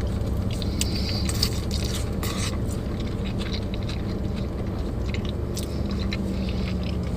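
Mouth sounds of someone chewing soft, loaded In-N-Out fries covered in spread, with small wet clicks and crackles scattered throughout. A steady low hum runs underneath.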